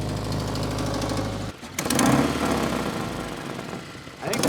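Subaru boxer engine running with an exhaust leak from a blown exhaust gasket. The sound drops out briefly about a second and a half in and comes back louder.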